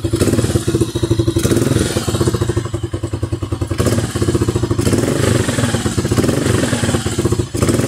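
Single-cylinder CG150 motorcycle engine running and revved several times with sharp twists of the throttle. It picks up without the stumble it had before the repair: a new stator (alternator) coil has cured the weak spark that made it bog on sudden acceleration.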